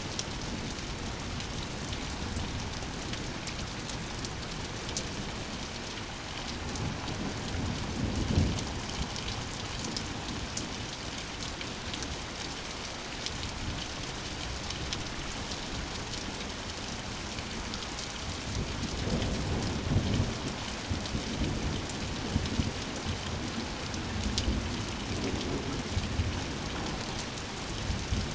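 Steady heavy rain pattering on surfaces, with rolling thunder rumbling low twice: a swell about a third of the way in and a longer, louder roll through the last third.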